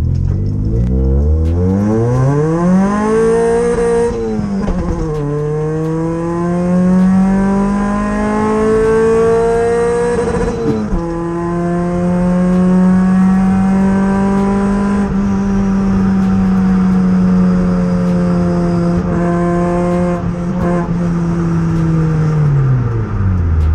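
Toyota Yaris engine heard from inside the cabin, pulling hard through the gears. The revs climb, dip at a gear change about four seconds in, and climb again to a second change near eleven seconds. They then hold steady and fall away as the throttle is lifted near the end.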